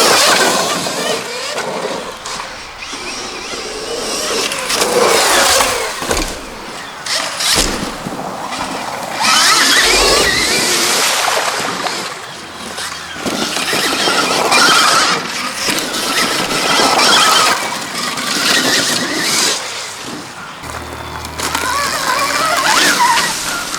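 Stark Varg electric motocross bike riding on dirt: its electric motor whine rises and falls in repeated surges of acceleration, mixed with chain and tyre noise.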